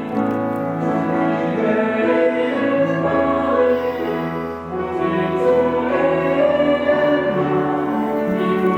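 Choral music with a choir singing long held notes over instrumental accompaniment.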